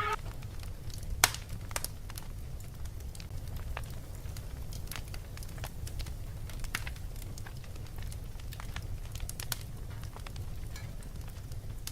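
Fireplace crackling: scattered sharp pops and snaps, the loudest about a second in, over a steady low rumble.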